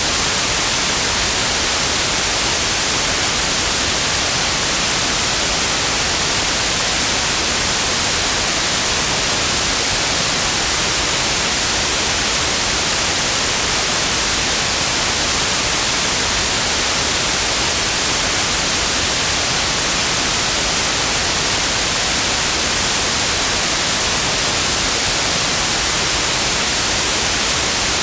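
Electronically generated white noise: a steady, even hiss that covers the whole range of pitch and never changes.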